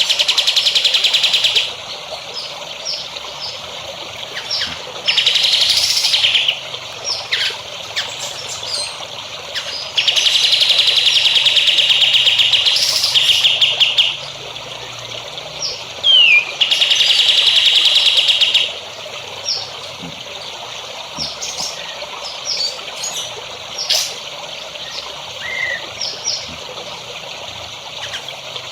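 Songbirds singing in long, rapid trills, each lasting a couple of seconds and repeated four times, with short chirps between them. Played as masteran song for training caged birds, over a steady trickle of water.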